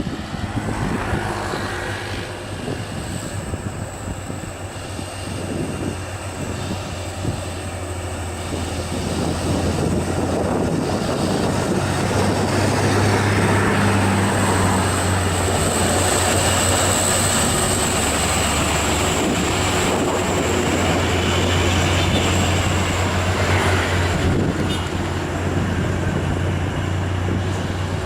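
Heavy loaded truck's diesel engine labouring uphill under load, a steady low drone with a thin high whine above it, growing louder about a third of the way in and holding.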